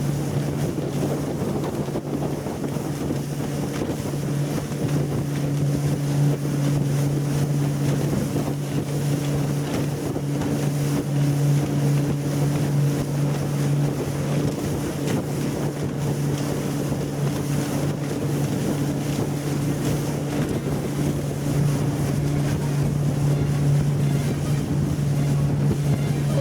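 Yamaha F90C four-stroke outboard motor running at a steady cruising speed, a constant engine hum, with the hull rushing through the water and wind buffeting the microphone.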